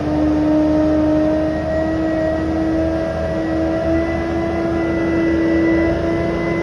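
Fire truck engine running steadily, with a whine that slowly rises in pitch.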